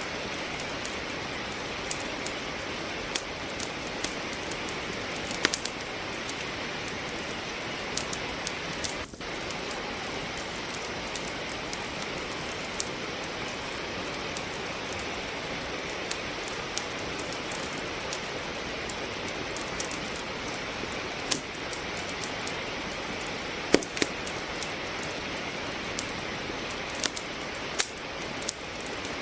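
Steady rain hiss with a wood fire crackling over it: irregular sharp pops and snaps of burning logs, one louder pop near the end.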